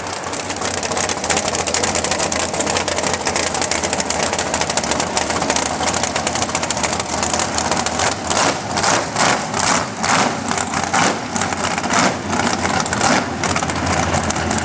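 A motor vehicle's engine running steadily with wide road or wind noise over it. In the second half the noise surges and dips about twice a second.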